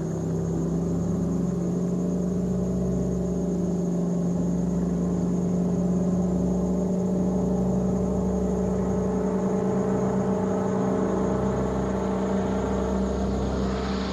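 Piston aircraft engine, the Allison V-12 of a P-40 fighter, running as a steady, unchanging drone with a low rumble underneath.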